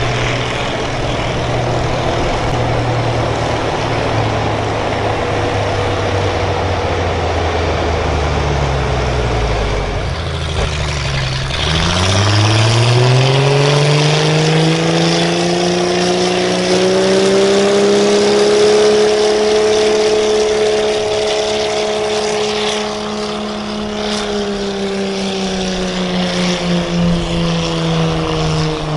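A pulling vehicle's engine running hard. About ten seconds in its pitch drops, then it revs up steeply over several seconds, holds high and slowly sags toward the end as it labours under the load of the weight sled.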